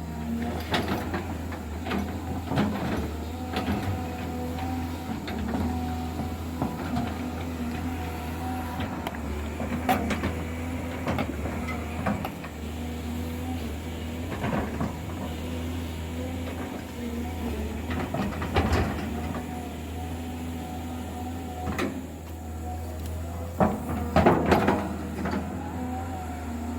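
Diesel engine of a heavy earthmoving machine running steadily while it levels soil, with intermittent metallic clanks and knocks from the machine working, the loudest about ten seconds in and again near the end.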